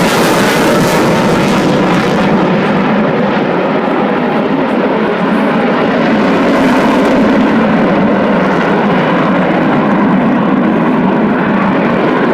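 Eurofighter Typhoon FGR4's twin EJ200 turbofan engines running loud on a slow, nose-high pass. The hissing top end fades about two seconds in, leaving a steady deep roar.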